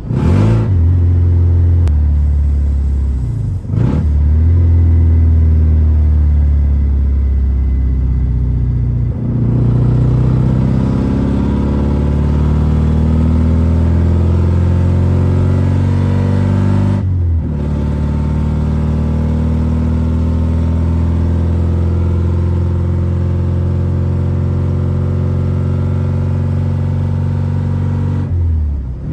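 BMW E36's engine driving under load, its note climbing and settling as the car accelerates, with short breaks in the sound four times, as at gear changes.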